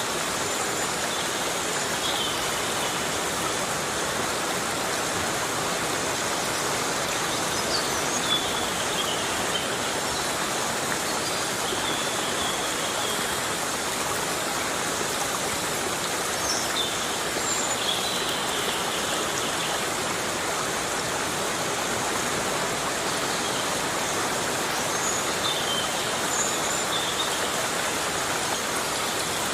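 Heavy rain falling steadily on forest vegetation, an even unbroken hiss, with short high chirps here and there.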